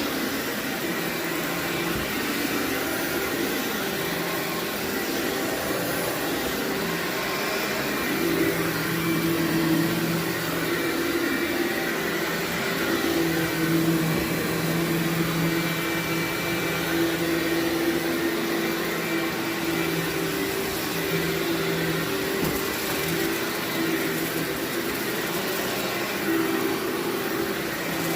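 Vacuum cleaner running steadily on carpet: a continuous rush of air with a low hum that comes and goes.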